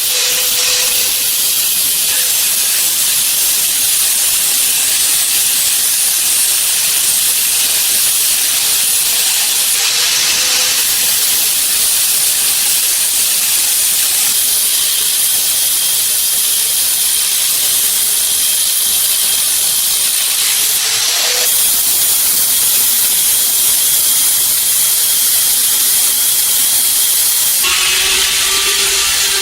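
Loud steady hissing noise, mostly high in pitch, whose texture shifts about ten seconds in, again around twenty-one seconds, and near the end.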